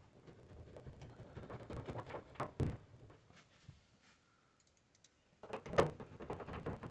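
Handling clicks, scrapes and knocks of screws and a hand-held Phillips screwdriver against the dryer's metal panels, with one sharper knock about two and a half seconds in and a run of clicks and knocks near the end after a short quiet spell.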